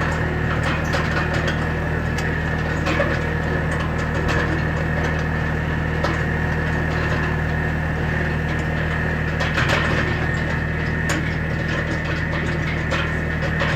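An engine running steadily at an even speed, with irregular clicking and crackling over it.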